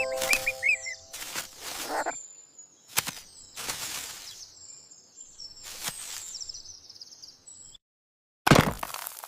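Cartoon sound effects: a few chirps at the start, then short noisy rushes over a thin high tone, a brief total silence, and a loud sudden hit near the end.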